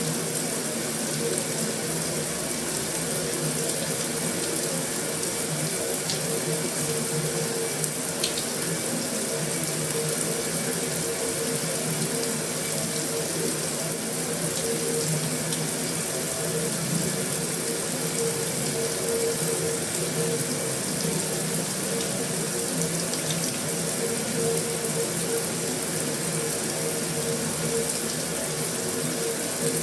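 Heavy rain on a metal roof: a steady, even hiss of rainfall with a few separate drop ticks standing out now and then.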